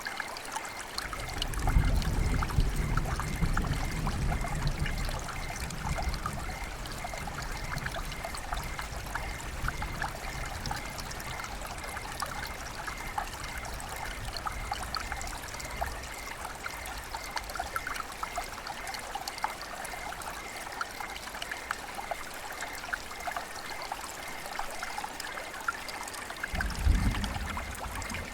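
River water flowing and trickling in a steady splashing hiss. A low rumble swells in about a second in and lasts several seconds, then returns near the end.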